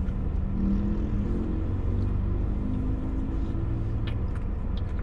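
Steady low rumble of a parked car idling, heard inside its closed cabin.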